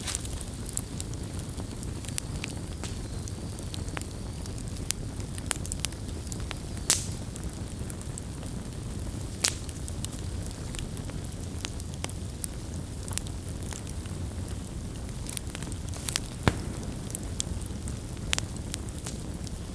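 Campfire burning, wood crackling and popping at irregular intervals over a low steady rush of flame, with a few sharper pops standing out.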